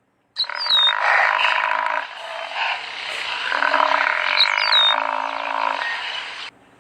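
Frogs calling in a dense chorus of many overlapping croaks. It starts abruptly about half a second in and cuts off suddenly near the end.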